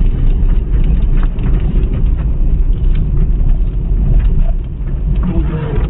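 A 2015 Mitsubishi Mirage on the road, heard from inside the cabin: a steady low rumble of engine and tyre noise, with its transmission quiet after repair.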